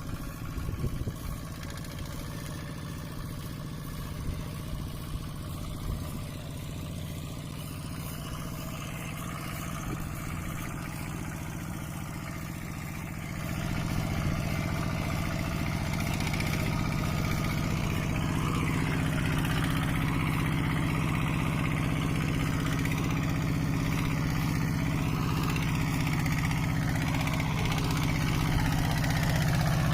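Mini tractor engine running steadily, getting louder about halfway through and staying at the higher level.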